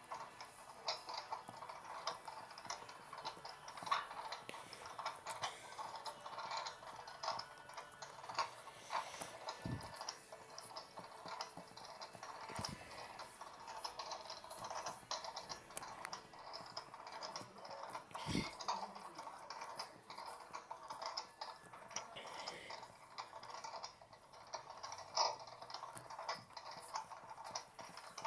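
Mini turbo-drum washing machine running its wash cycle: a dense, irregular patter of small clicks and splashes from the churning water and clothes, with a few faint low thuds.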